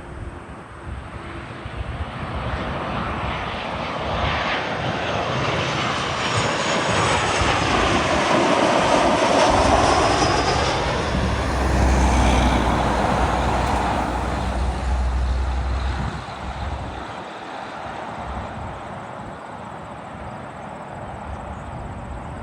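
An airplane passing overhead. Its engine noise builds, is loudest about halfway through, then falls away and fades.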